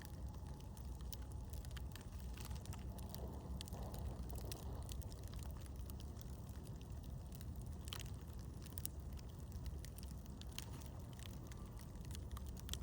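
Campfire crackling: irregular sharp pops and snaps over a low steady rumble, with one louder pop about eight seconds in.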